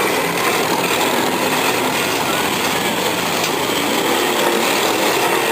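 Demolition derby car engines running and revving together in a loud, steady din.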